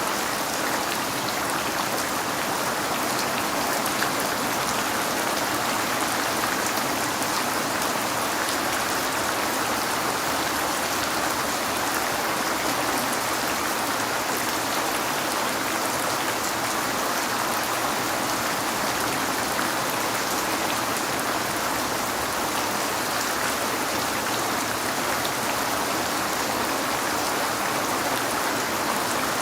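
Rain falling steadily on a window: an even, unchanging hiss with the ticks of individual drops.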